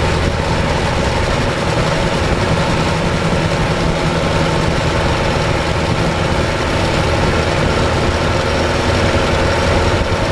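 Ford Model T's four-cylinder engine running steadily at highway speed, with heavy wind and road rush over the hood.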